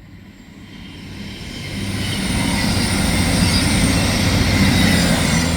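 Class 221 Super Voyager diesel-electric multiple unit passing through the station without stopping, its engine hum and running noise growing louder over the first two seconds and then staying loud.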